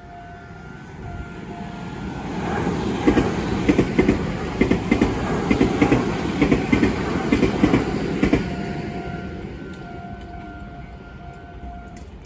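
A Meitetsu Nagoya Main Line train passes through a level crossing, its wheels clacking over the rail joints in a loud run from about two to nine seconds in. Throughout, the crossing alarm rings its repeating electronic ding, heard clearly before and after the train goes by.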